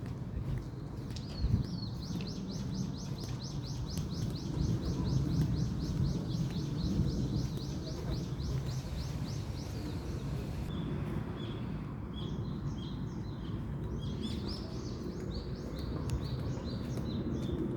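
Songbird singing a long, fast trill of evenly repeated high notes, about four a second, which stops about eleven seconds in and gives way to separate short chirps. A steady low rumble of outdoor noise runs underneath.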